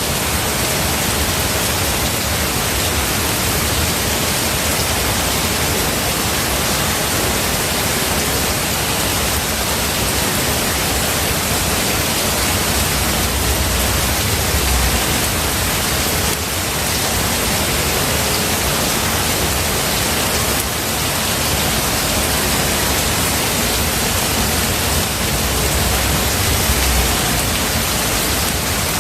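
Steady heavy rain falling, a dense even hiss. Low rumbles of distant thunder swell about halfway through and again near the end.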